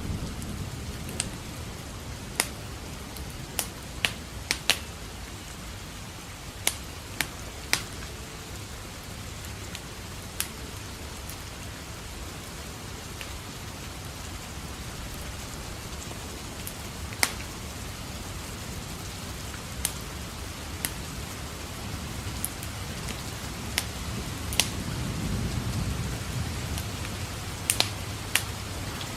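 Steady rain with a wood fire crackling, sharp pops at irregular intervals. A low thunder rumble swells and fades about three-quarters of the way through.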